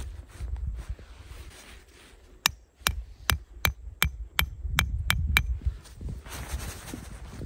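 Nine sharp knocks in a steady rhythm, about three a second, starting about two and a half seconds in, over a low rumble of wind on the microphone.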